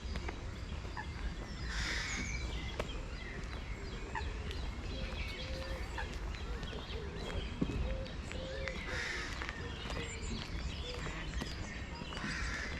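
Wind rumbling on the camera microphone, with birds calling briefly three times: about two seconds in, near the middle and near the end.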